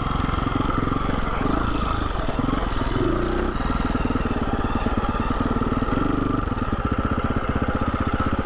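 2020 Husqvarna 350 FE's single-cylinder four-stroke engine running at low revs, a steady putter with small changes of throttle as the dirt bike picks its way over rough ground.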